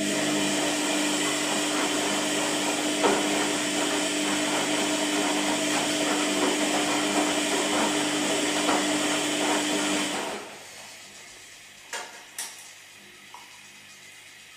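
Washing machine running: a steady motor hum under a loud churning noise that stops abruptly after about ten seconds, followed by two short knocks.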